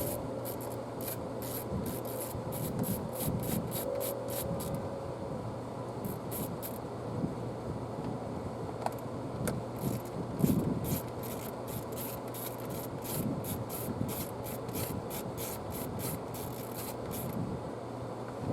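A T-handle socket wrench turning out the rusted screws of an engine air filter cover: a fast, even run of scraping clicks. It pauses briefly about five seconds in, and there is a knock about ten seconds in.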